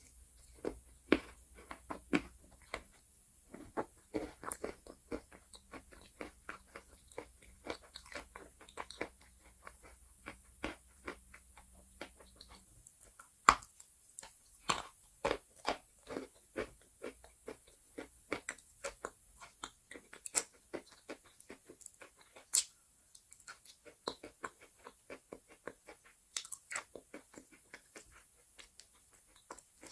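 Close-up crunching and chewing of pieces of chalk: a steady run of crisp, irregular crunches with several sharply louder bites.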